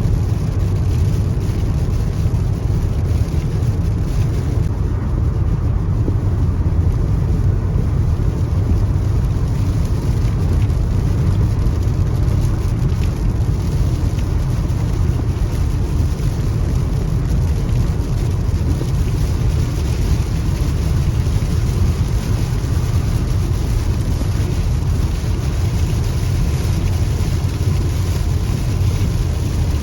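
A car driving, heard from inside the cabin: a steady low road rumble with a fainter hiss of rain and tyre spray over it.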